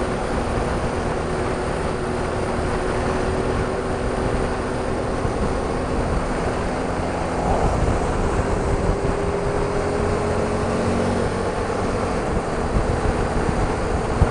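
Motorcycle engine running steadily while riding, under a constant rush of wind and road noise; the engine note dips slightly and climbs again about halfway through.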